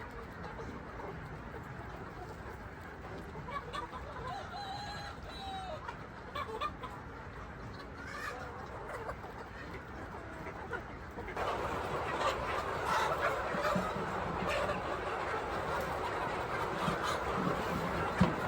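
Chickens clucking and calling, with scattered short calls throughout; the clucking grows louder and busier after about eleven seconds.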